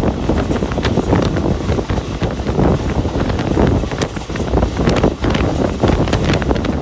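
Rumble of a moving passenger train heard from on board, with wind buffeting the microphone and irregular sharp clacks throughout.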